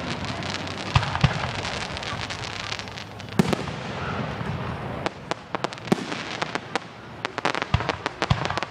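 Fireworks display: shells bursting with sharp bangs over steady crackling. A fast run of crackling pops fills the second half.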